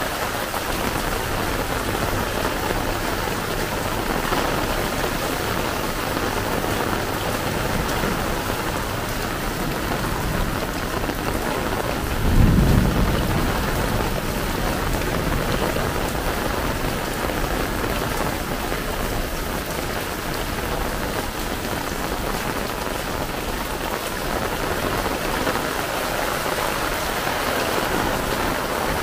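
Heavy rain falling steadily. About twelve seconds in, a short low rumble of thunder is the loudest moment.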